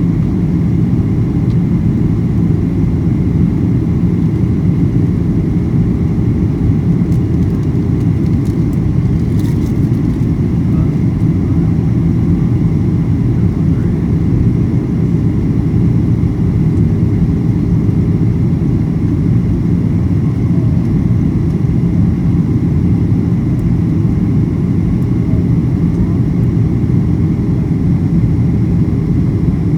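Steady low rumble of a Boeing 737-800's CFM56-7B engines and rushing air, heard from inside the passenger cabin, with a faint steady whine above it.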